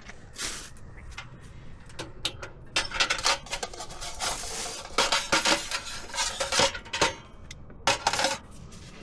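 Small hard objects, like metal cookware or utensils, clinking and clattering as they are handled. There are a few scattered clicks at first, then a busy run of clatter from about three seconds in that stops shortly before the end.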